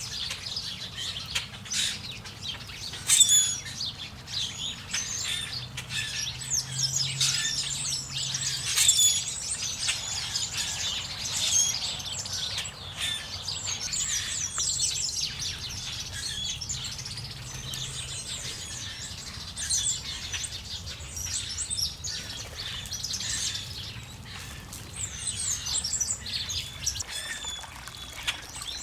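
Many small birds chirping and calling at once, short overlapping chirps with no break.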